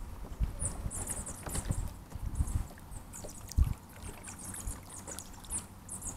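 Irregular low knocks and thuds from a sit-on-top kayak being paddled, the loudest about three and a half seconds in, with short, high chirping calls over the top.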